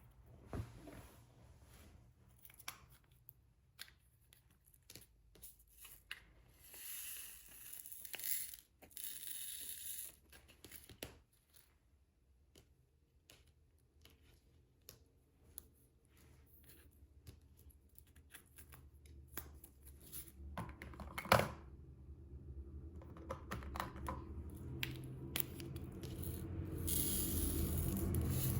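Diamond painting at work: many small clicks and taps from a drill pen picking up and setting resin drills on the canvas. There are stretches of rustling about six to ten seconds in and again from about 23 seconds on, and one sharper knock about 21 seconds in.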